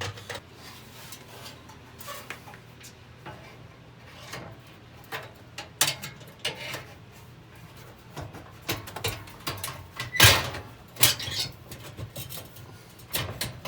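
Scattered clicks and knocks of tools and metal parts being handled during work on a trailer furnace's propane fittings, the loudest knock about ten seconds in, over a low steady hum.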